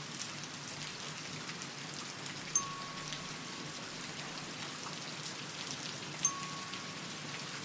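Steady rain hissing. Twice, about three and a half seconds apart, a soft high tick is followed by a faint held tone.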